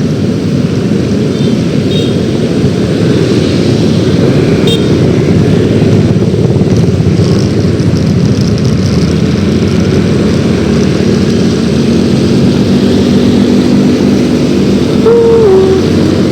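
Yamaha X-Ride scooter under way on the road: steady engine, road and wind noise on the microphone. Near the end comes a brief higher tone that steps down in pitch.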